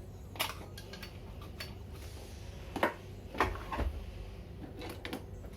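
Several light, sharp clicks and taps of small hand tools working on the TV's circuit board during the replacement of a shorted diode, over a steady low hum.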